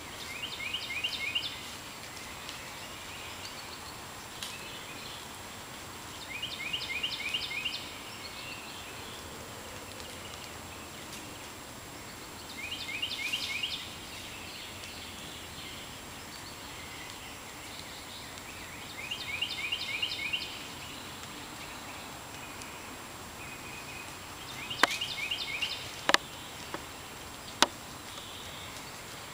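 A songbird singing the same short phrase of quick repeated notes, about once every six seconds, over a steady background hiss. Near the end come a few sharp snaps, like twigs breaking underfoot.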